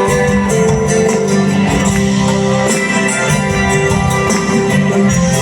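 Instrumental band music with guitars over a steady percussion beat, no singing.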